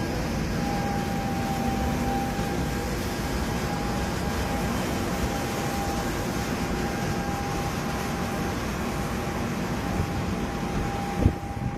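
Steady low rumbling noise of running machinery with a thin steady whine over it, and a single knock near the end.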